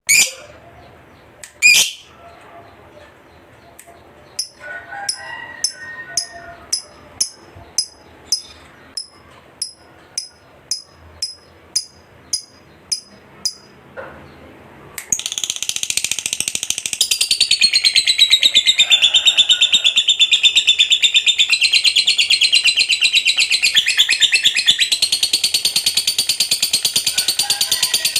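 Lovebird singing: a string of short, sharp high chirps, then about fifteen seconds in a long, unbroken rapid chattering trill, the extended 'ngekek' that keepers prize in a fighter lovebird.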